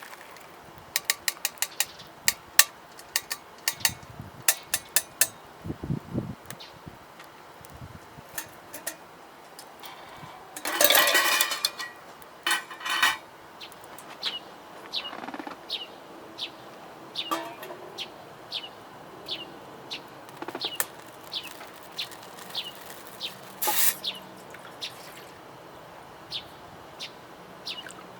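Sharp clicks and clatter of cooking gear, then a loud rustling burst near the middle. After that, a bird calls with short falling chirps repeated a little more than once a second.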